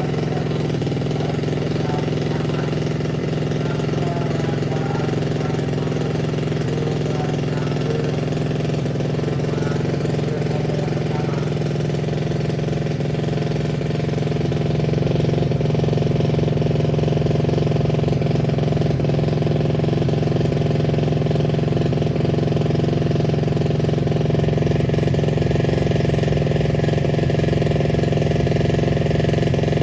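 Motocross bike engine running at a steady idle, a little louder from about halfway through.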